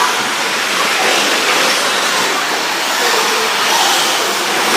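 Several 1/10-scale electric 4WD short course RC trucks running on an indoor dirt track: a steady, dense rushing noise of motors and tyres.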